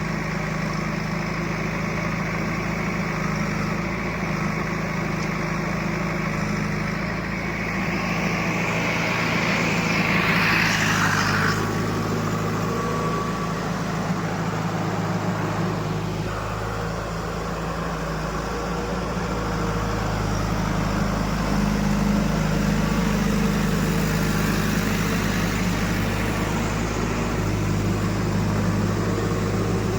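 Heavy diesel machinery engine running steadily, with a higher whine that rises and fades about ten seconds in, as under a brief load or rev.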